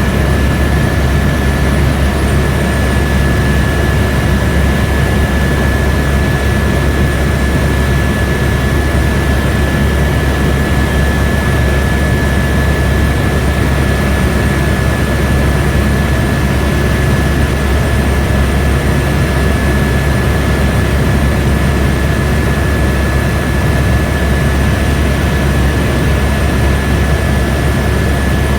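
Airbus AS350 B2 helicopter in cruise, heard from inside the cabin: the Arriel turboshaft and rotor make a steady, loud drone with a deep hum and a constant high whine, unchanging throughout.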